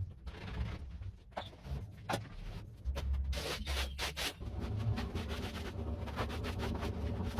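A wet, dirty carpet being scrubbed by hand: irregular rubbing and scraping strokes with sharp scratchy clicks.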